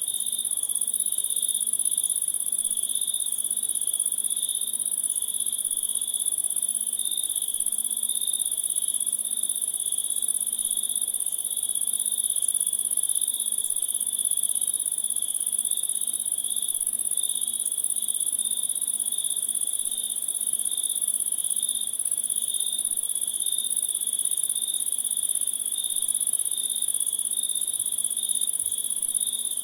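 Crickets trilling in a continuous chorus: a steady high shrill over a lower, pulsing trill, with a faint low pulsing note beneath.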